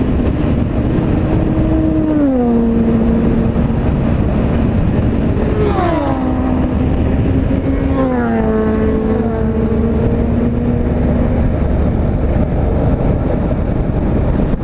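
Steady wind and road noise at highway speed, with the engine notes of passing vehicles dropping in pitch and then holding steady, three times.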